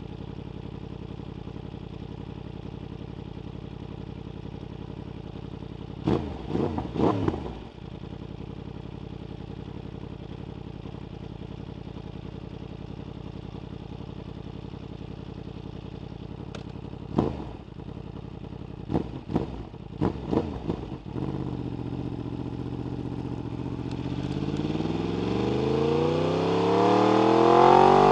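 Yamaha R1 inline-four sportbike with an Akrapovic exhaust idling steadily, with a quick cluster of throttle blips about six seconds in and another run of blips later on. Near the end the engine pulls away, its pitch rising steadily as it grows louder.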